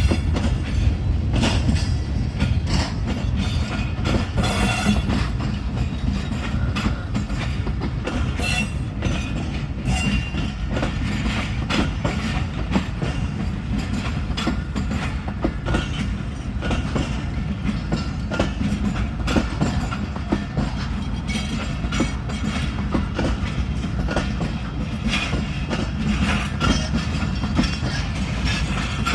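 Coaches of a Pakistan Railways passenger train, the Khyber Mail, rolling past with a steady low rumble and a continual clickety-clack of wheels over the rail joints.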